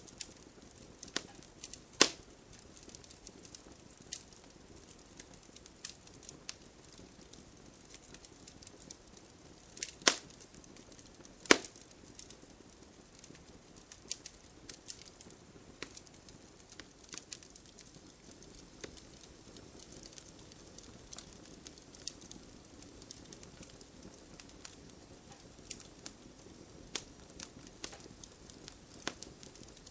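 Wood bonfire crackling, with scattered sharp pops and snaps; the loudest pops come about 2, 10 and 11½ seconds in. Under the crackle runs a faint, even hiss of rain.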